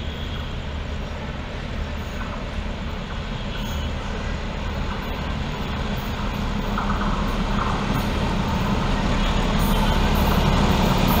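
Diesel locomotive approaching at the head of a passenger train, a low engine rumble growing steadily louder as it nears.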